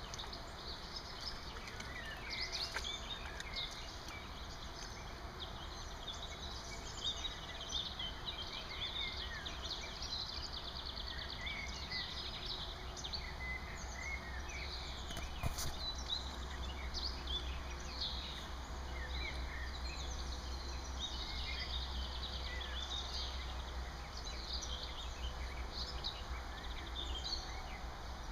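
Several small birds chirping and singing over a steady outdoor background hiss and low rumble, with a single sharp click about halfway through.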